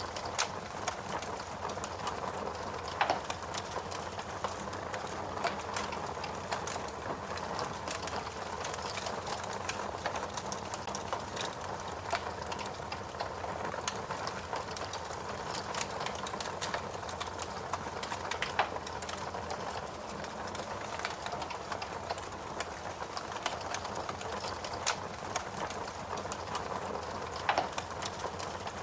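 Wood fire crackling steadily, with a continuous hiss and many small irregular snaps and a few louder pops.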